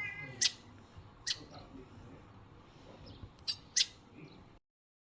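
Birds calling: about five short, sharp, high calls, the first with a fuller, layered tone. The sound cuts out abruptly shortly before the end.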